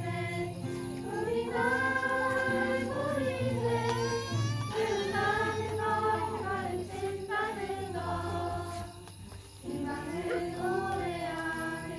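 A group of children singing a song together in unison, with music accompaniment, pausing briefly about nine seconds in.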